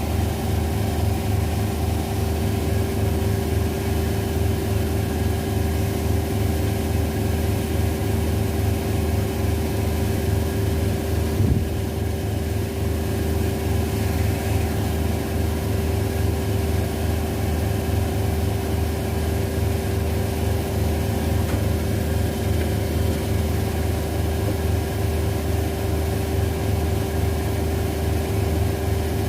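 An LG Centum washing machine and a Zanussi washing machine in their spin cycles, running at a steady speed with a constant hum and whine. There is one brief knock about eleven seconds in.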